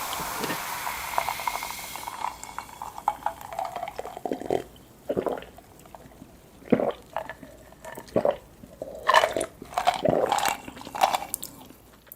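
Close-miked eating: separate biting and chewing sounds of sushi and seafood, coming about once a second and louder toward the end, after a steady hiss that fades over the first two seconds.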